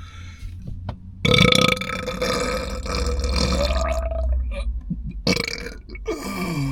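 A person burping loudly after eating: one long burp lasting about three seconds, then a second burp near the end that drops in pitch.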